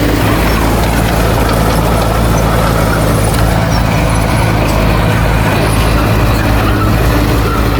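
Heavy diesel engine of an earthmoving machine running steadily and loudly.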